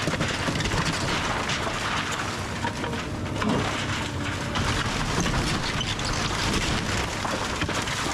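Kobelco SK210 excavator's engine running under load while it crushes a house, with wood and debris cracking, snapping and crashing throughout.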